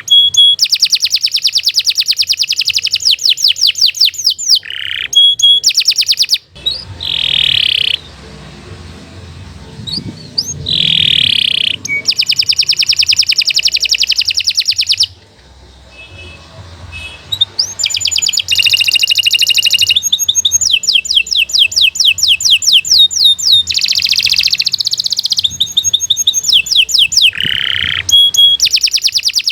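Domestic canary singing long, fast trills of rapidly repeated high notes, broken by short swooping notes and a couple of brief pauses: a long, continuous 'gacor' song used for tutoring young canaries.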